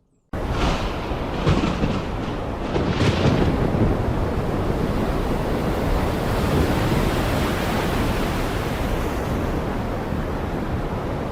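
Heavy rain pouring down as a loud, dense hiss with a deep low rumble underneath. It cuts in suddenly out of near silence a fraction of a second in.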